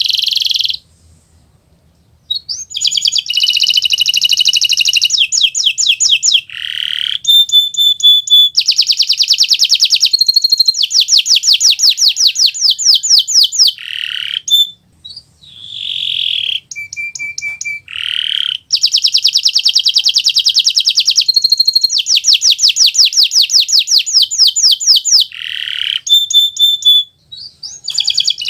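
Kenari Nusantara canary singing a long, loud song of rapid trills and rolls, fast runs of repeated notes, with brief pauses.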